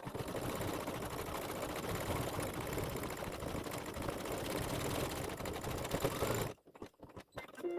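Embroidery machine stitching steadily at speed, then stopping abruptly about six and a half seconds in.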